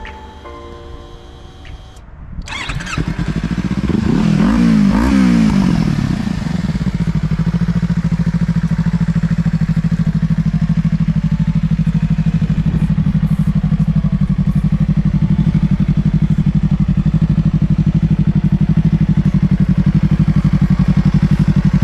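Yamaha YZF-R25's parallel-twin engine with an Akrapovič exhaust starting about two seconds in, revved a few times in quick blips, then idling steadily.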